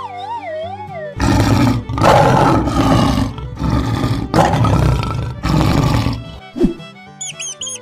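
Lion roaring, several roars in quick succession starting about a second in, over background music.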